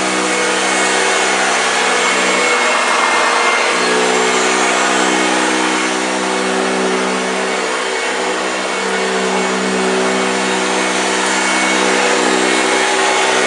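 1965 Hoover Junior 1334A upright vacuum cleaner running steadily while vacuuming. Its motor note sags and recovers a few times, around three to four seconds in and again near eight seconds.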